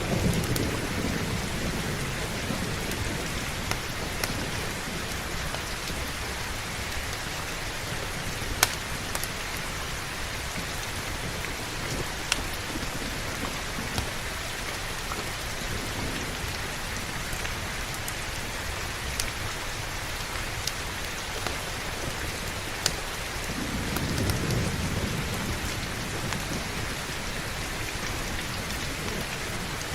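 Steady heavy rain, with low rolling thunder fading away at the start and rumbling again about 24 seconds in. A few sharp pops stand out over the rain, the loudest about nine seconds in.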